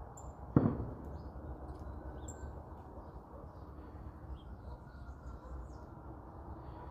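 Small birds chirping, short high calls scattered throughout over a steady background hum. One sharp thump about half a second in, louder than anything else.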